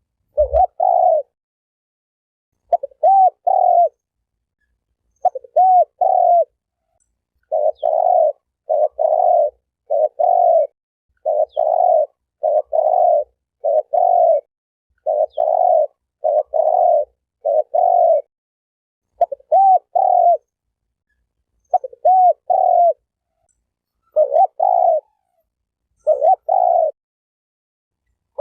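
Spotted dove (terkukur) cooing over and over: short coos in groups of two or three, some rising and falling in pitch, repeated about every one to two seconds with brief silences between.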